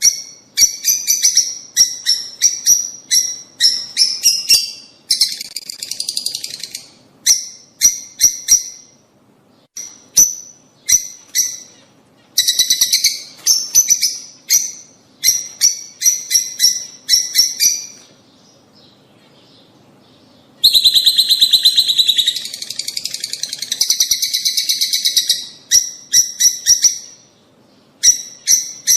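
Lovebirds chattering in fast runs of sharp, high-pitched chirps, with a short lull in the middle followed by several seconds of dense, unbroken chatter.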